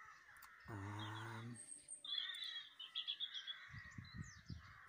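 A songbird twittering in the background, with a quick trill of high notes about two seconds in.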